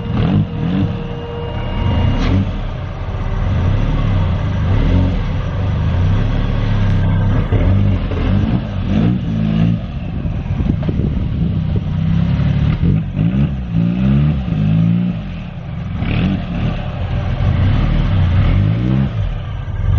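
Turbocharged Nissan CA18DET four-cylinder engine of a Locost kit car, running and revving, its pitch rising and falling several times.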